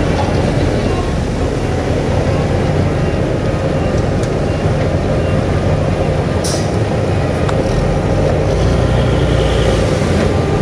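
Heavy diesel engine of earthmoving machinery running steadily, with a brief high squeal a little past halfway and a couple of sharp clicks.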